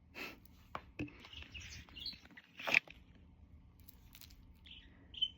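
Jenday conure giving short, high chirps scattered among a few sharp clicks, the loudest click about halfway through.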